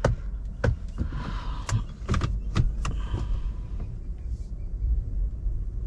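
A run of sharp clicks in the first three seconds from the headlight switch stalk of a Toyota Innova Hycross being flicked back and forth. Under them is a low, steady road rumble in the cabin, with the hybrid running in EV mode and no engine sound.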